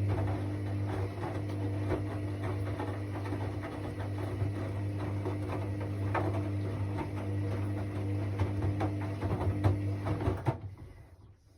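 Hoover washing machine's drum turning the load in a wash phase: steady motor hum with irregular clicking and rattling. The motor stops near the end and the sound dies away.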